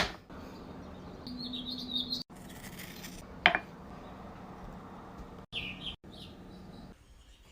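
Short high-pitched chirps from a small animal, in two brief bouts, with a sharp click in between.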